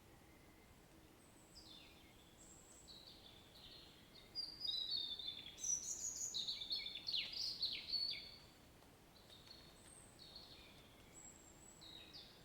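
A songbird singing a run of quick, high, downward-sweeping chirps and whistles, loudest and densest in the middle few seconds, over a faint steady hiss of rain ambience.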